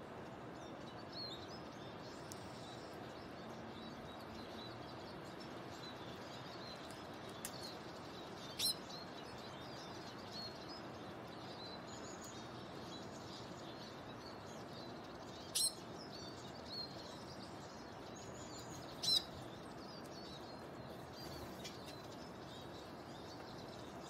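Faint, scattered bird chirps over a steady outdoor hiss, with three short, sharp, high chirps: one about a third of the way in, one about two-thirds in, and the loudest toward the end.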